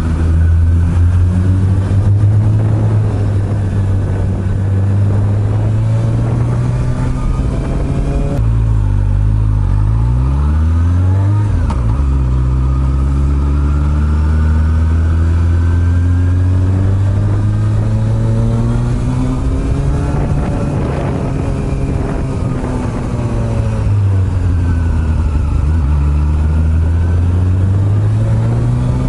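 Honda CB400 Super Bold'or (NC42) inline-four with an aftermarket R's Gear exhaust, heard from on board while riding. The engine holds a steady pitch, drops away about nine seconds in and climbs again, and dips and rises once more near the end.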